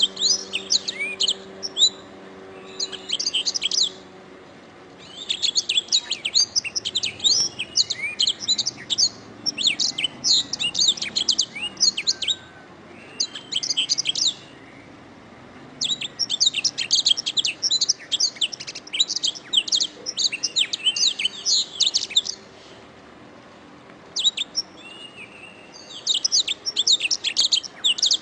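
Canary singing in rapid, rolling trills and chirps, in several long phrases broken by short pauses.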